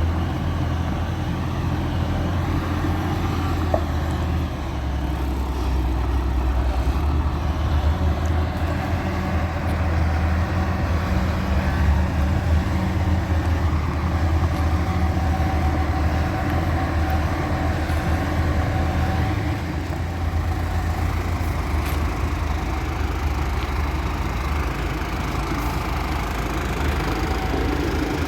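Isuzu Giga concrete mixer truck's six-cylinder turbo diesel engine running steadily at idle, with a low, even engine note.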